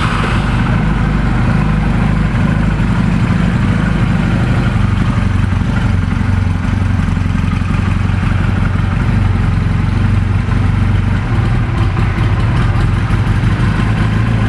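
2008 Honda Rebel 250's carbureted air-cooled parallel-twin engine idling steadily, just after being started from cold.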